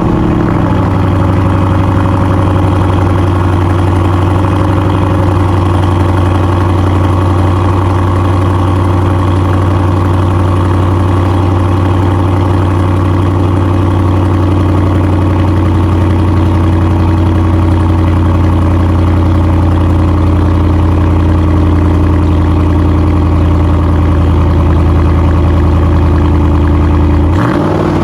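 6.4-litre Hemi V8 idling through a muffler-delete exhaust that keeps the stock resonator, loud and steady with a deep low pitch, just after being started.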